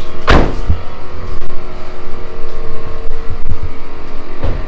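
Maruti Suzuki Wagon R CNG car's engine idling steadily, with a sharp thump about a third of a second in and a couple of lighter knocks near the end.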